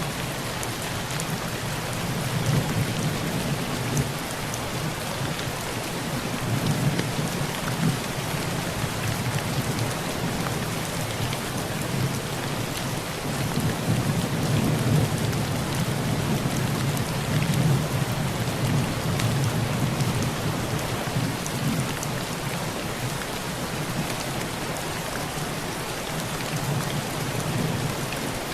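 Heavy rain falling steadily on a tin roof, with low thunder rumbling under it and swelling several times.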